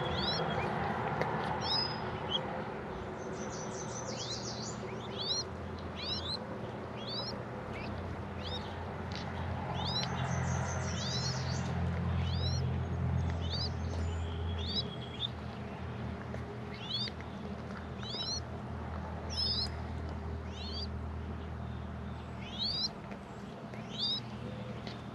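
A bird's short, high chirps, repeated about once a second, over a low steady rumble that swells through the middle and then fades back.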